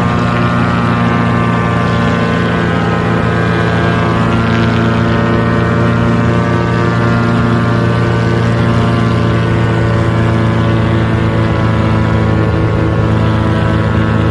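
Paraplane (powered paraglider) engine and propeller running steadily in flight, an even, unchanging drone.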